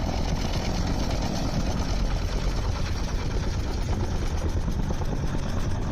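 Helicopter running, a steady engine-and-rotor rumble with rapid beating.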